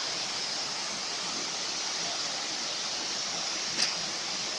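Waterfall rushing in a steady, even hiss. One brief click near the end.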